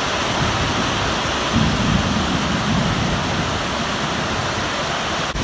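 Storm wind and heavy rain making a loud, steady rushing noise.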